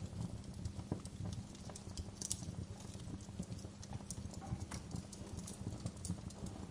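Fireplace fire crackling: many irregular sharp pops and snaps, a few louder than the rest, over a steady low rumble.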